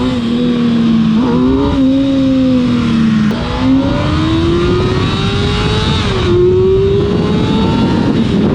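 Kawasaki ZX-6R inline-four sportbike engine accelerating through the gears under the rider, over wind rush. Its pitch climbs in each gear and drops back at upshifts about one, three and a half, and six seconds in.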